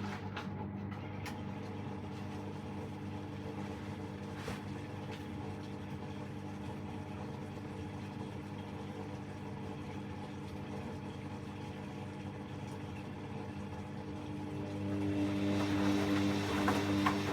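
Hoover washing machine at the start of its final 1000 rpm spin, the drum motor giving a steady hum made of a few tones. It grows louder about fifteen seconds in.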